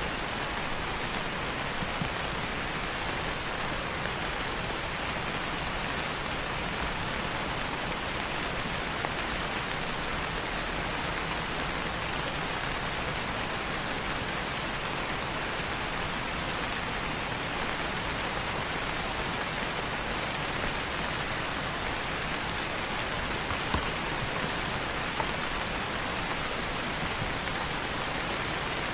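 Steady rain falling on leaves, with a few separate drops striking now and then.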